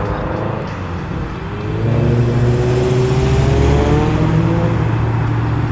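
Subaru WRX's turbocharged boxer flat-four pulling away. Its note rises in pitch as it accelerates, louder from about two seconds in, then holds fairly steady.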